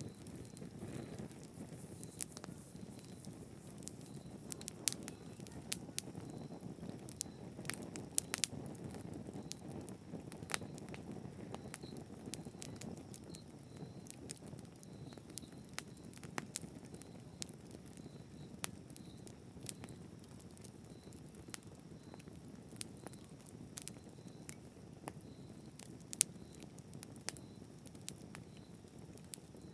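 Campfire burning: a low steady rumble of flames with sharp crackles and pops at irregular intervals.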